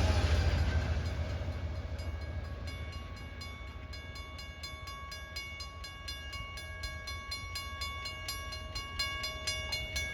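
Amtrak train's low rumble fading as it passes and moves away from the grade crossing. From about two seconds in, the crossing-signal bell rings in a steady, rapid rhythm.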